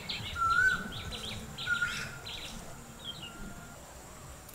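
Birds calling: a quick run of short high notes, about four a second, that fades out around halfway through, with a couple of short clear whistled notes early on.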